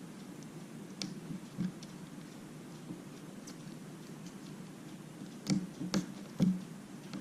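Light clicks and taps of small parts and tools being handled during an iPad mini screen repair, a few scattered at first and a cluster of three near the end, over a steady low hum.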